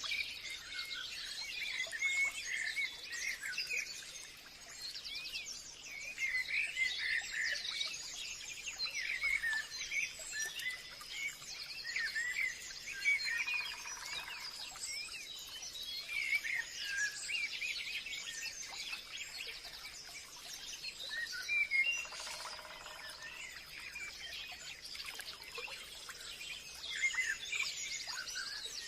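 Forest birdsong: many small birds chirping and calling over one another in a dense chorus, over a steady high-pitched tone. There are two short buzzy calls, about halfway through and again later on.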